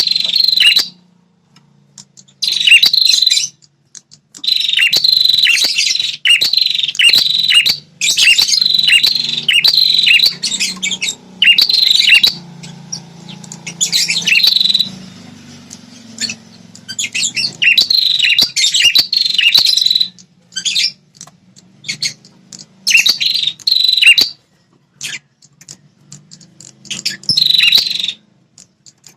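A prenjak kepala merah singing its territorial song: loud phrases of rapid, repeated high chirps, each a second or two long, with short pauses between them.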